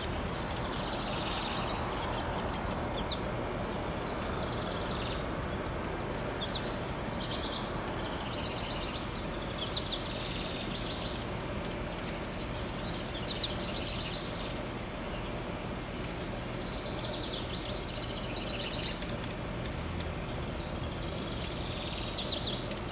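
Small songbirds chirping and singing in short phrases every few seconds over a steady outdoor background hiss and rumble, with a thin steady high-pitched tone underneath.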